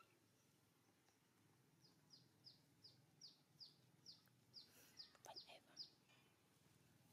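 Faint bird calls: a run of about a dozen short, high chirps, each falling in pitch, about three a second, with a brief rustle about five seconds in.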